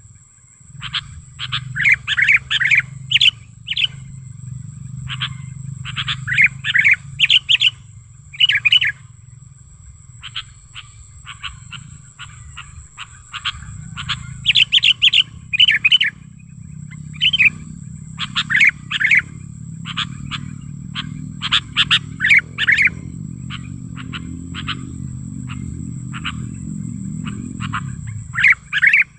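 Sooty-headed bulbul (kutilang) singing vigorously: bursts of short, bubbly chirping phrases repeated every second or so, with brief gaps. A steady high whine and a low hum run underneath.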